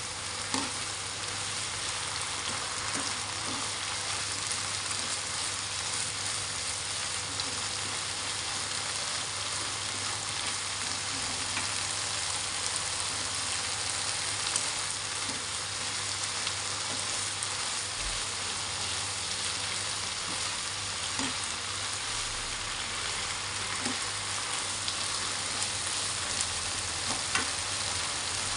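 Stir-fry of tempeh, long beans and carrots sizzling steadily in a frying pan, stirred now and then with a slotted metal spoon, which gives a few faint ticks.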